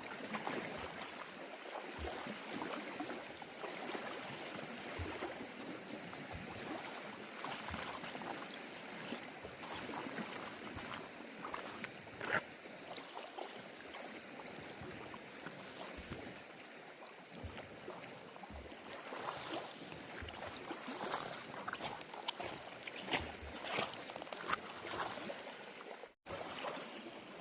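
Small waves lapping at the lake shore, with scattered light clicks and taps over it; the sound cuts out for an instant near the end.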